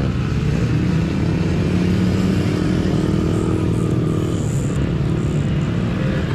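Engines of mini dirt bikes revving as they race, several engine notes rising and falling over one another.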